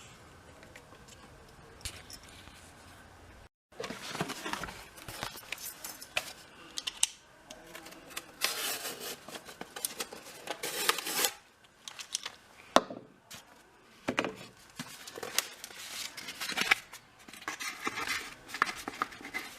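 Faint steady hum for the first few seconds, then irregular scraping, rustling and light metallic clicks of hand work on small metal parts.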